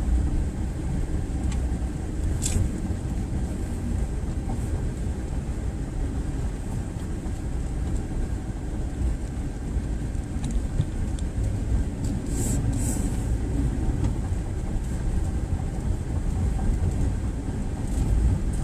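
Steady low rumble of road and engine noise inside the cab of a moving Chevrolet Silverado pickup.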